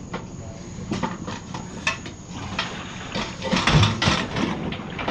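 Scrap metal clanking and knocking as it is handled and shifted, with a busier run of rattling knocks about three seconds in.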